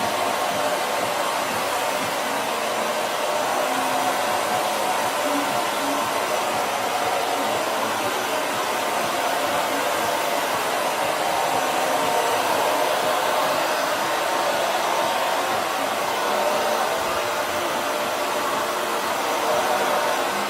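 Hand-held hair dryer running steadily, a continuous rush of blown air with a steady motor whine under it, used to blow-dry hair for pomade styling.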